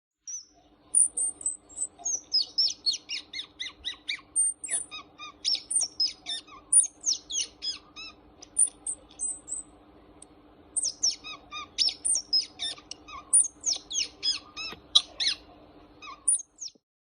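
Birds chirping and twittering: a dense run of quick, high chirps and short falling notes, with a short lull about two thirds of the way through.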